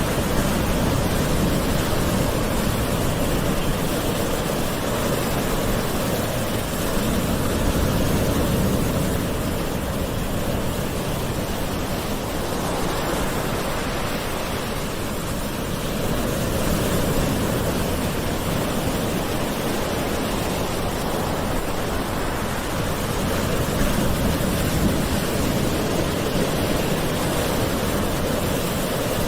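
Calm ocean waves washing ashore: a steady rushing of surf that swells and eases slowly every several seconds.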